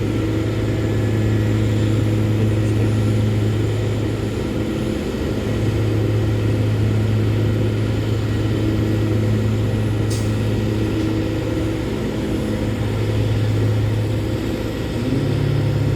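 An engine running steadily at idle, a low hum that dips briefly about five seconds in and shifts slightly in pitch near the end.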